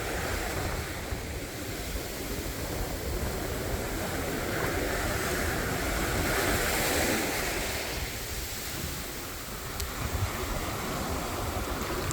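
Sea waves washing onto a beach, swelling louder about halfway through, with wind buffeting the microphone.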